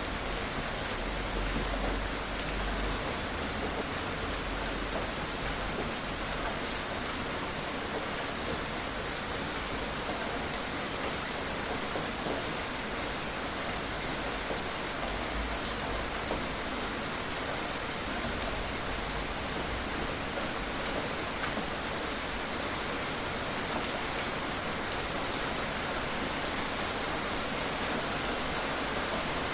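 Steady gentle rain falling, an even hiss with scattered drop ticks and a faint low rumble.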